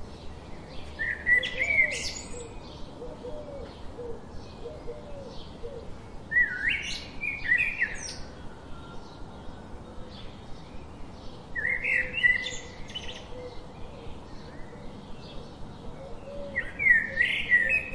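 Birdsong: one bird sings a loud, warbling phrase of about a second and a half four times, roughly every five seconds, over a steady run of faint, short high chirps.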